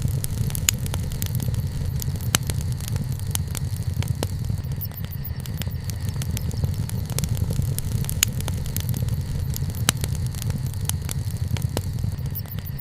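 Wood fire burning: frequent sharp crackles and pops of the burning wood over a steady low rumble.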